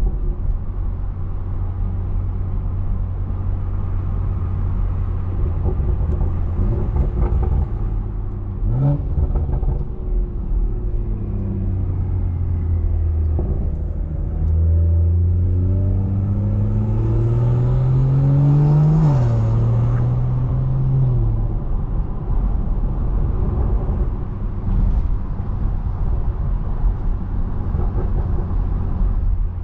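BMW 340i's straight-piped, big-turbo 3.0-litre inline-six droning at a steady cruise. There is a brief blip of revs about nine seconds in. About halfway through, the revs climb steadily for several seconds under acceleration, then drop back to the cruising drone.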